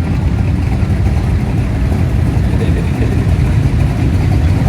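Car engines running at low speed in a slow queue of cars, a steady low rumble.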